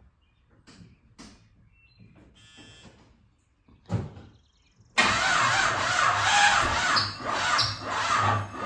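A Chevy Malibu's starter cranking the engine for about four seconds without it catching, after a short thump; the cranking is labouring on a battery that is no good.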